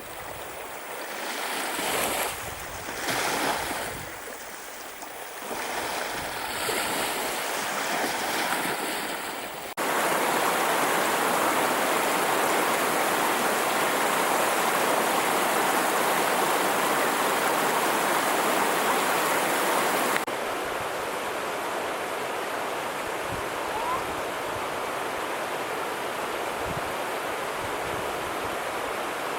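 Running water in three cuts: a rush that swells and dips, then a sudden change to a louder, steady rush about ten seconds in, then a slightly quieter steady rush for the last third.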